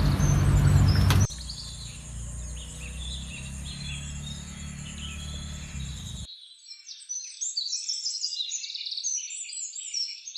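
Birds chirping and calling with many quick high chirps. A loud low rumble cuts off about a second in, and the low background noise drops out about six seconds in, leaving only the birds.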